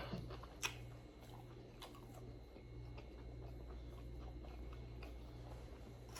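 Quiet chewing with mouth-closed eating: a few faint clicks, the clearest about two thirds of a second in, over a steady low hum.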